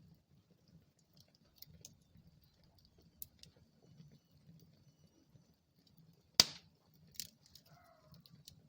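Wood fire crackling in a fireplace: a low rumble of flames under scattered small pops, with one sharp loud pop a little over six seconds in and a smaller one just after.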